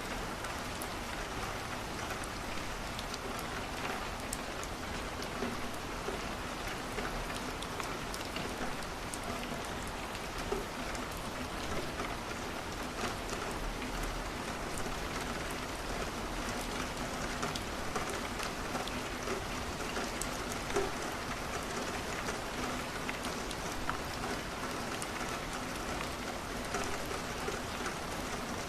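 Steady rain falling on a window, with small crackles and pops from a wood fire scattered through it.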